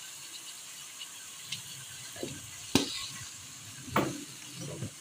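Minced meat and onions frying in a pan with a steady faint sizzle. Two sharp clicks of a utensil against the pan come a little past halfway and near the end, with a few softer knocks around them.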